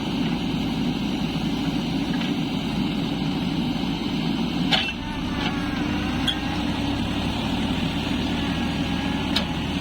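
Heavy diesel machinery engine running steadily, with one sharp knock about halfway through.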